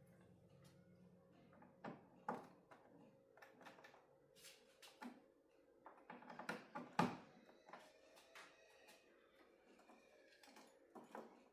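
Scattered light clicks and knocks of small hard objects being handled, with the loudest knock about seven seconds in, over a faint steady hum.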